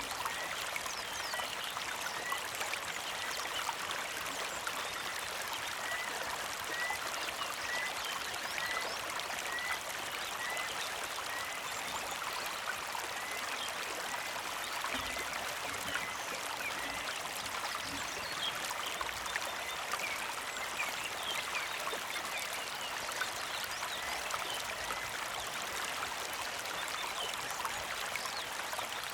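Small creek flowing and trickling steadily over stones. Through most of it a bird repeats a short high chirp about twice a second, stopping near the end.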